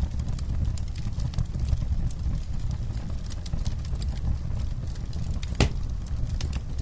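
Wood campfire burning: a steady low rumble of flame with frequent small crackles and pops from the burning wood, one louder pop near the end.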